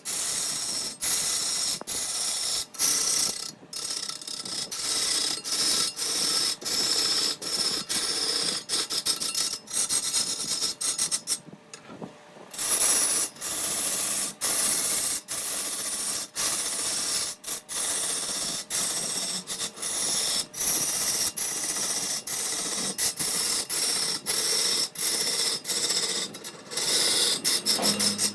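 A hand or power tool working wood, a steady rasping noise broken by many short gaps, with a brief lull about twelve seconds in.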